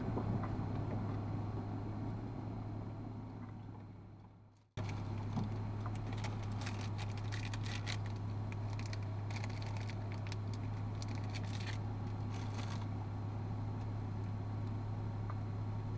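Steady low hum of a 4WD's idling engine, heard from inside the stopped vehicle. It fades out about four seconds in, cuts back in abruptly, and irregular crackles and clicks come through for several seconds in the middle.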